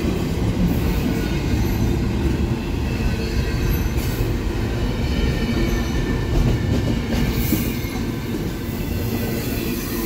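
Double-stack container well cars of a freight train rolling past, a steady loud rumble of steel wheels on rail with thin, faint high tones above it.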